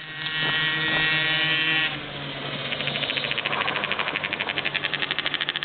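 Small 50cc motocross bike engine running: a steady high engine note for about two seconds, then a rapid, even putter of roughly a dozen pulses a second as it runs at lower revs.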